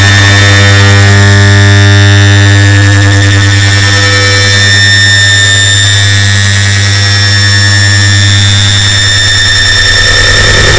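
Air conditioner start-up sound layered on itself many times over into one loud, distorted, steady drone: a strong low hum with a thick hiss of noise above it. The low hum thins near the end.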